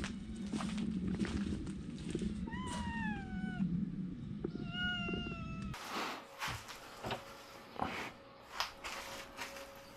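A domestic cat meows twice, about two and a half and four and a half seconds in: the first call falls in pitch and the second is held level. A steady low hum under the calls stops suddenly about six seconds in, and scattered light taps and knocks follow.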